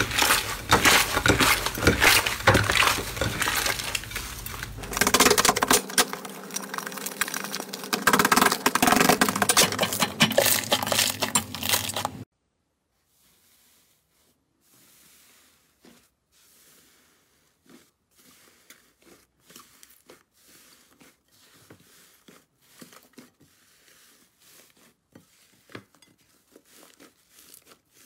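Slime being squeezed and worked by hand, giving a loud, dense crackling and crunching full of sharp clicks. About twelve seconds in it cuts off suddenly, and only faint, scattered sticky crackles and clicks follow.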